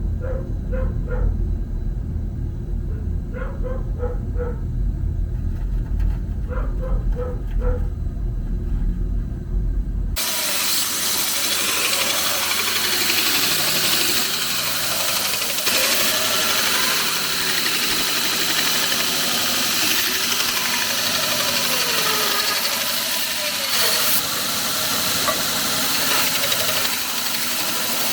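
A dog barks in short runs of three or four over a low rumble. About ten seconds in, this cuts off abruptly to a steady, loud, hissing machine noise.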